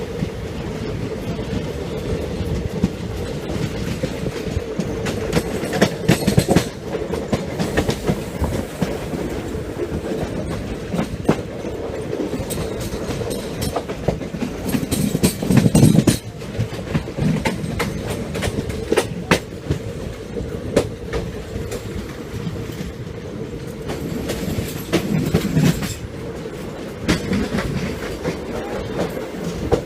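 Express passenger train running, heard from aboard a coach. A steady rumble and hum with wheels clattering over the rail joints, and louder stretches of clatter about six, fifteen and twenty-five seconds in.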